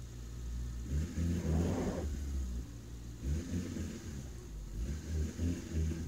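Suzuki Samurai's engine running at low speed as the 4x4 crawls up a rough dirt track, its hum rising and falling in several short revving swells. A brief rush of noise comes about a second and a half in.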